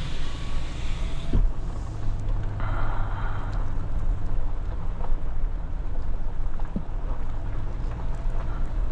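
Pickup truck engine running low and steady while the truck is driven slowly with a trailer hitched. A brief rushing noise comes about three seconds in.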